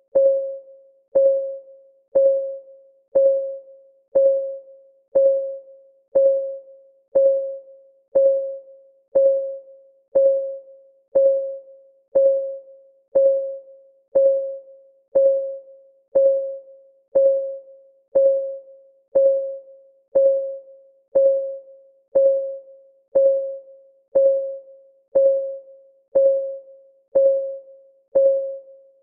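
Countdown timer's ticking sound: one short, pitched tick every second, each a clear tone that fades within about half a second.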